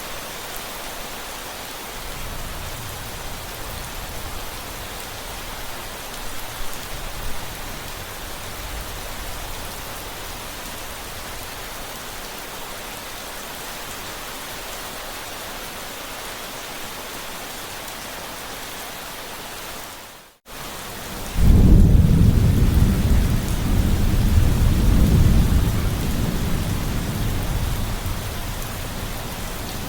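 Steady rain falling, with low thunder rumbling faintly early on. About two-thirds of the way through the sound cuts out for a moment, then a loud, long thunder rumble rolls in and slowly dies away.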